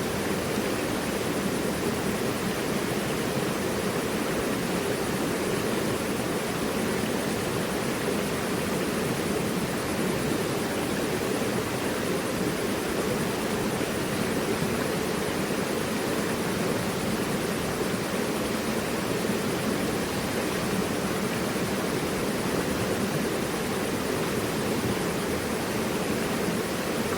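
Mountain river rushing over rocks: a steady, even rush of water that does not change.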